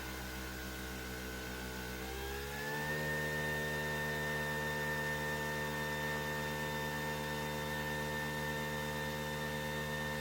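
Nespresso VertuoPlus coffee machine running as it brews: a steady motor hum that rises in pitch about two to three seconds in, then holds level.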